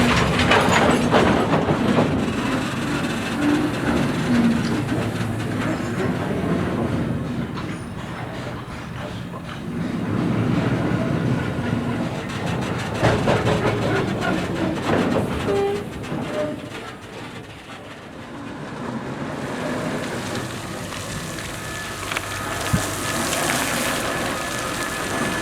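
Steam-hauled train of spoil dump wagons moving along the track, the wagons and wheels clanking irregularly, with a brief dip in level about two-thirds of the way through.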